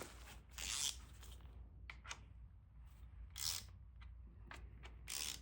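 Three short rasping strokes from hand work on the engine during reassembly, over a low steady hum.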